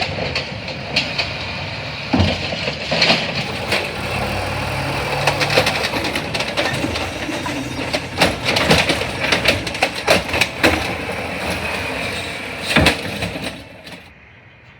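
CNG Autocar Xpeditor ACX garbage truck with an Amrep body working at the curb: the engine runs steadily under repeated metallic clanks and knocks from the body and bins. The sound drops off sharply near the end.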